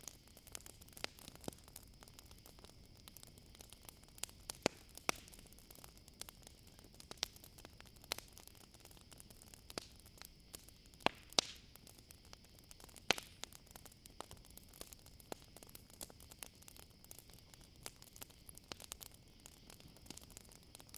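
Campfire crackling, with irregular sharp pops, the loudest about 11 and 13 seconds in, over a steady high-pitched chorus of crickets.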